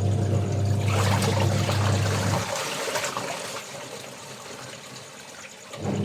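Water pouring and splashing, while an electric motor or pump hums steadily; the hum cuts out about two and a half seconds in and starts again near the end. A faint steady high insect trill runs underneath.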